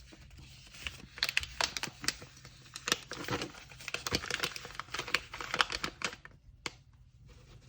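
Packaging paper crinkling and rustling while being handled, with quick sharp clicks and taps, busiest from about a second in until about six seconds in, then quieter.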